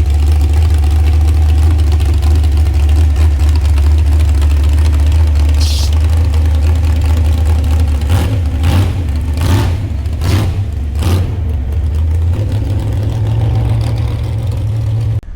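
Mud-bogging truck's engine idling loudly, with a few short throttle surges about eight to eleven seconds in and a slightly higher idle after that. The sound stops abruptly just before the end.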